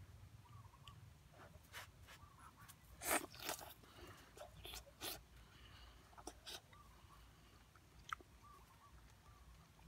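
A person eating close up: irregular crunchy chewing and biting of soft-crisp banana stem slices, the loudest crunch about three seconds in. A single sharp click comes near the end.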